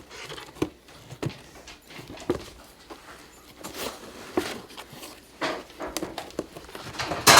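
Kittens clawing and chewing at a cardboard box: irregular scratching and rustling strokes, with a louder scrape near the end.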